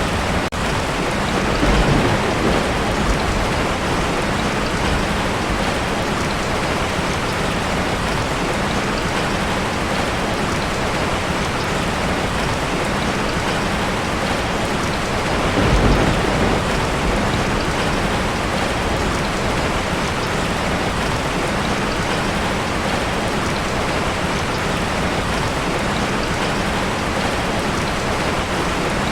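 Heavy rain falling steadily on a tin roof, with low rumbles of thunder swelling about two seconds in and again about halfway through.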